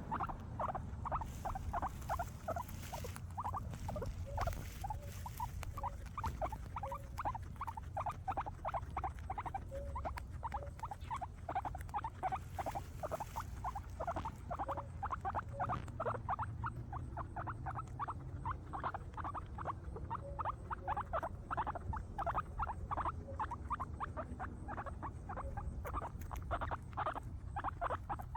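Guinea pigs chewing grass: a fast, steady run of small crunching bites.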